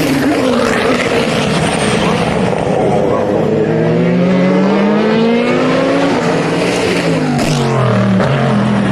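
Racing car engines at full throttle at the track, the engine note climbing steadily as a car accelerates, then dropping away about six seconds in as it passes and shifts.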